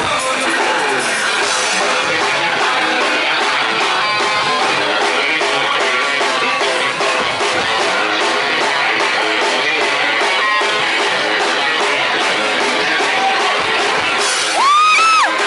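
Live rock band playing a loud instrumental passage led by electric guitar over drums. Near the end a sustained note swoops up and back down, the loudest moment.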